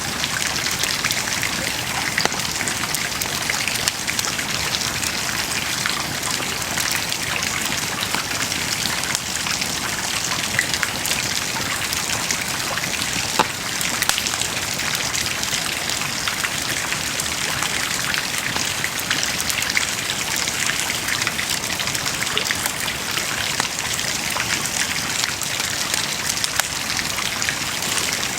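Wood bonfire burning: a steady dense crackle of many small pops and snaps over a soft hiss, with a sharper pop about halfway through.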